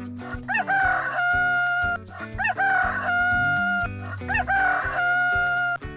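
Rooster crowing three times, about two seconds apart, each crow rising quickly into a long held note. A backing music track plays underneath.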